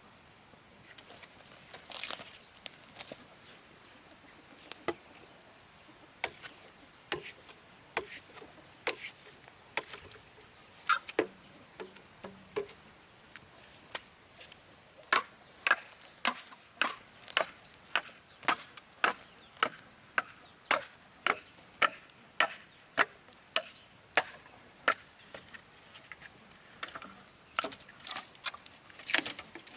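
Repeated chopping with a blade, sharp strikes at first irregular and then settling into a steady rhythm of about two a second.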